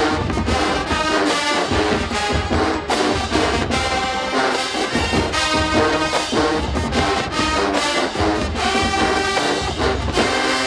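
A college marching band playing loudly: brass horns over a steady beat of bass and snare drums. The music stops abruptly right at the end.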